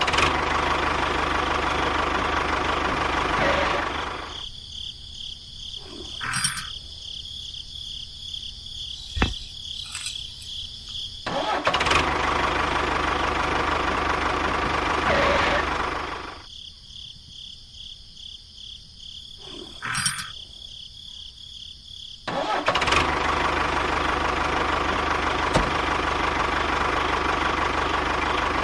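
Small motor of a homemade mini tractor model running loudly in three spells. It drops to a much quieter level twice, with a few knocks in the quiet gaps.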